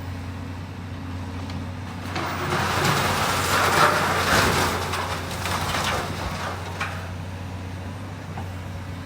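Heavy demolition equipment running with a steady low engine hum. From about two seconds in, a louder rush of noise with some crackling swells up, peaks around four seconds and fades by about seven seconds.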